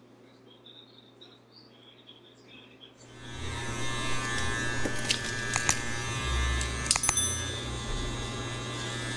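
Electric hair clippers switch on about three seconds in and buzz steadily while trimming a beard, with a few sharp clicks. Before that there is only faint chirping.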